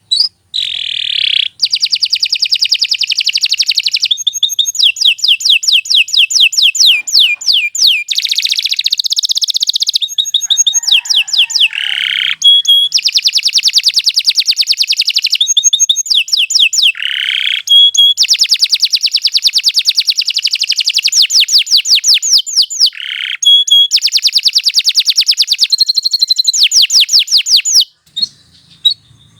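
Domestic canary singing on and on in a long song of fast trills and rapidly repeated notes, phrase after phrase with only short breaks, pausing briefly near the end.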